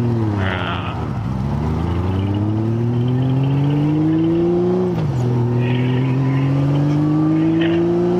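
Motorcycle engine accelerating on the road: its pitch climbs steadily, drops with a gear change about five seconds in, then climbs again.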